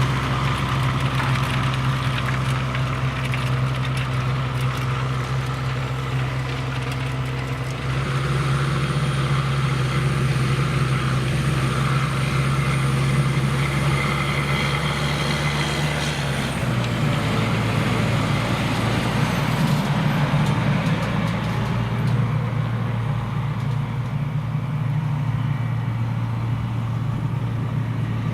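Claas Xerion 5000 tractor's diesel engine running steadily under load while pulling a Köckerling Rebell cultivator; the engine note drops slightly about two-thirds of the way through.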